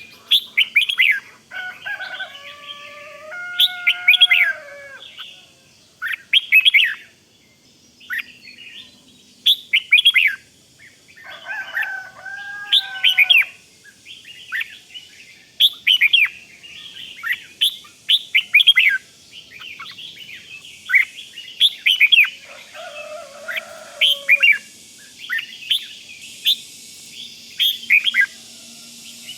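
Red-whiskered bulbul calling: a run of quick, sharp chirps, broken three times by a lower, wavering song phrase.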